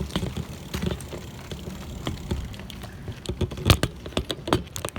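Irregular knocks and rattling clatter over a low rumble, the loudest knock nearly four seconds in.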